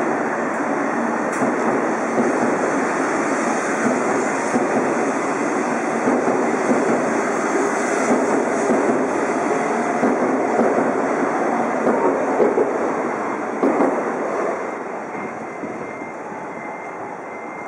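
JR East E2 series Shinkansen train running past along the station platform, with a loud, steady rumble of wheels and running gear. About fourteen seconds in, the sound drops away as the end of the train goes by.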